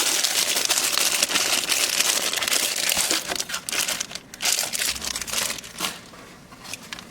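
Plastic packaging crinkling and rustling as it is handled, dense for about four seconds, then in shorter, scattered bursts.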